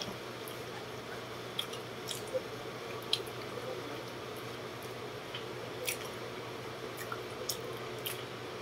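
Wet chewing and lip-smacking on a mouthful of ripe banana, heard as about a dozen short, sharp mouth clicks scattered irregularly, over the steady hum of an electric wall fan.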